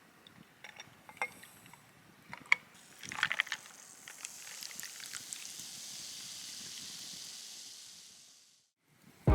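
A few light clinks of glass being handled, then liquid poured into a glass with a steady hiss that fades away after about five seconds.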